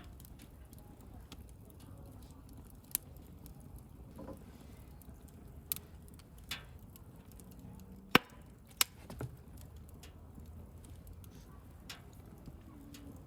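Wood bonfire crackling: sharp pops and snaps every second or so, the loudest two close together about eight seconds in, over a low steady rumble of the burning fire.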